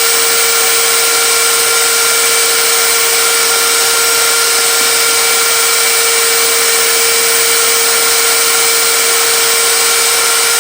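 Electric power tool motor running steadily with a high whine, used to take a small lip off a wooden fence so it is all one height.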